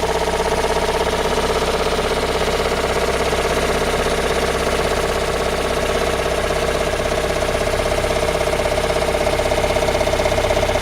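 Toyota Raum's 5E-FE four-cylinder petrol engine idling steadily with a rhythmic knock heard after an engine rebuild.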